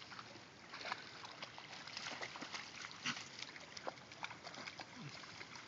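Dogs splashing and moving about in floodwater over a steady rush of water, with scattered short splashes and a few brief, low dog noises.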